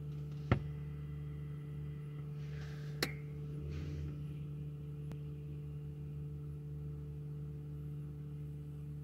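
Steady low hum inside a stationary car's cabin, most likely its own engine idling. Two sharp clicks cut through it, a loud one about half a second in and a softer one about three seconds in.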